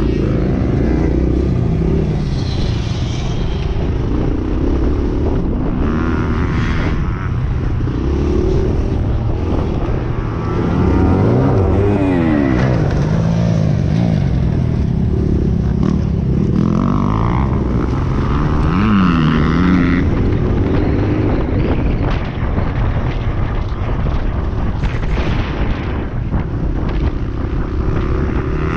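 Several motocross dirt-bike engines revving up and down, their pitches rising and falling and overlapping as the bikes run the track.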